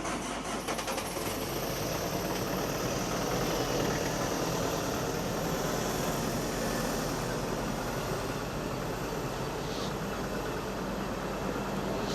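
Steady engine noise with a low rumble and general traffic hum, even throughout with no distinct knocks or bangs.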